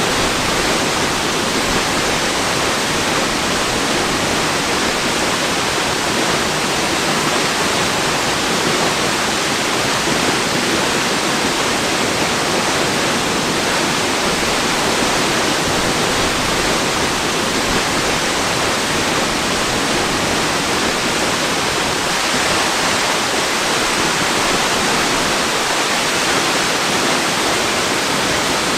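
Waterfall: a steady, unbroken rush of falling water, even in level with no separate splashes.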